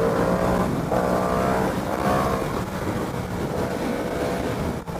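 Motorcycle engine running with wind rush, its note rising and easing a few times in the first couple of seconds, then holding steady.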